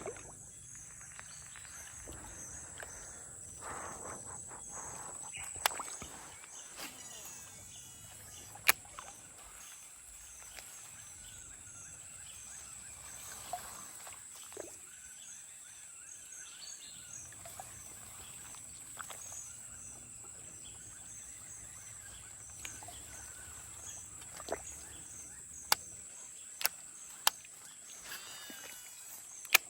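Outdoor ambience: a steady high-pitched insect drone, with a few sharp clicks scattered through it.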